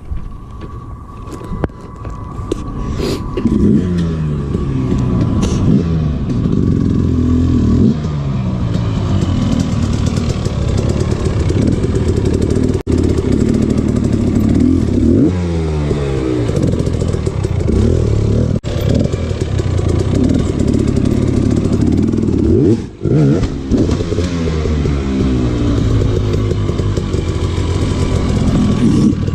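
Dirt bike engine revving up and down again and again, its pitch rising and falling every second or two as the throttle is worked.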